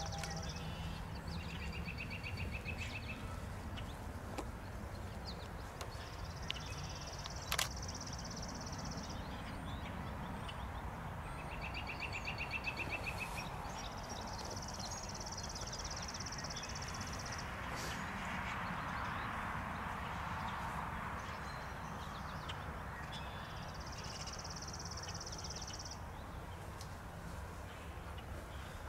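Songbirds singing: a high trill lasting two to three seconds, repeated every several seconds, with a shorter, lower trill between, over a steady low rumble. A single sharp click about seven seconds in.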